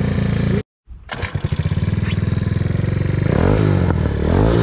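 Small moped engine running with a rapid, even putter. The sound cuts out completely for a split second about half a second in, then the engine picks up again, and its revs rise and fall near the end as the throttle is worked.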